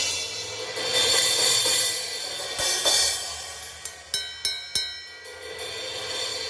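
Drum kit played during a sound check: cymbals washing and swelling twice, then four quick sharp strikes in under a second about two-thirds of the way through, each ringing briefly.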